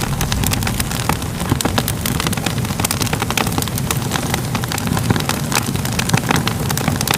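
Crackling fire ambience: a steady low rumble of flames under frequent sharp pops and crackles.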